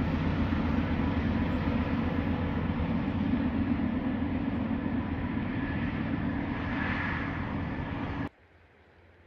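BNSF freight train rolling past: a steady rumble of wheels on rail, with faint steady tones above it, that cuts off abruptly about eight seconds in.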